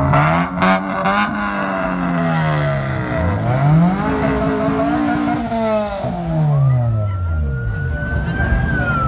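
A modified eighth-generation Honda Civic sedan revving as it rolls slowly past, its engine note swelling up and falling back several times, with some sharp pops. In the second half a thin siren-like wail rises, holds and starts to fall near the end.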